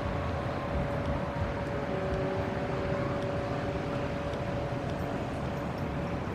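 City street traffic noise: a continuous low rumble of vehicles with a steady hum running through it, and a second, lower hum for about two seconds in the middle.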